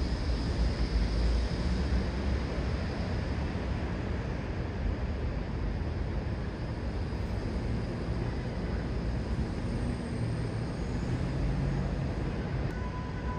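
Metro-North commuter train rumbling at the station: a steady low rumble that eases slightly over the first few seconds. A faint steady tone comes in near the end.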